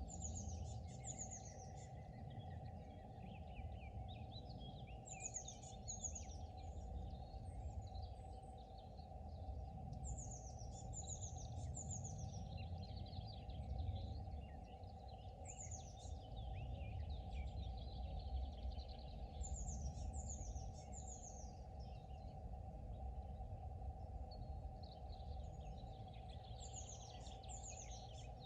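Small songbirds singing, with short runs of quick, high, falling notes every few seconds, over a steady low rumble and a constant faint hum.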